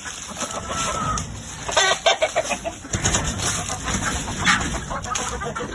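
Gamefowl clucking and calling, with a quick run of loud clucks about two seconds in and a few more calls after.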